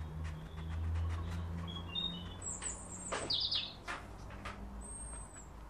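Small bird chirping: a few short, high whistled notes, with a quick run of chirps about two and a half to three and a half seconds in, over a steady low hum.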